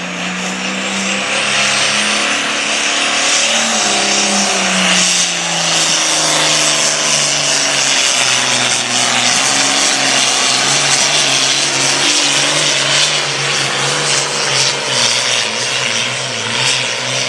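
Pulling tractor's engine running loud at high revs under full load during a pull, with a dense high hiss over it; its pitch dips a few seconds in and then holds steady.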